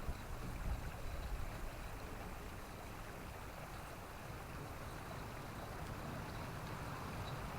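Steady, even outdoor noise with an uneven low rumble that is heaviest in the first second and a half; no distinct birdsong stands out.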